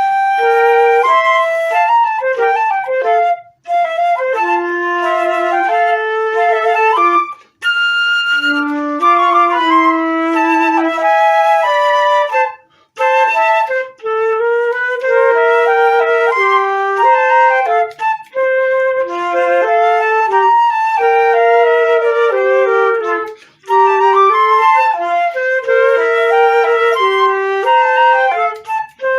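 Two transverse flutes playing a duet: two melodic lines weave together, a lower part and a higher part, with a few short breaks between phrases.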